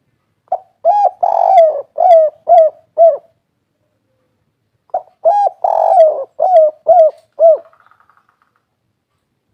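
Spotted dove (derkuku/tekukur) cooing two phrases. Each phrase ends in three short separate notes, the 'kuk 3' song type prized by Indonesian dove keepers.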